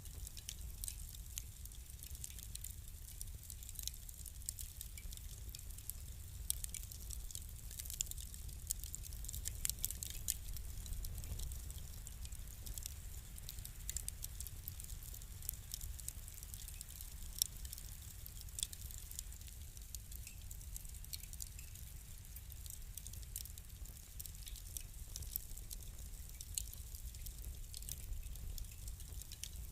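Wood fire crackling, with frequent small sharp pops and snaps over a steady low rumble of flames.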